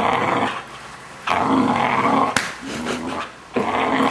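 Six-month-old Vizsla making weird, drawn-out growly vocal noises, four in a row with short breaks between them.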